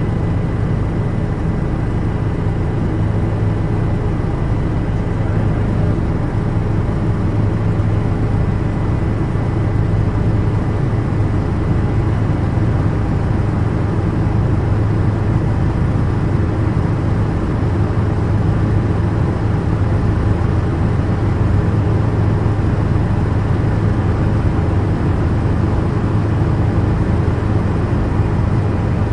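Toy remote-control helicopter's electric motor and rotors running steadily: a constant drone with a thin high whine.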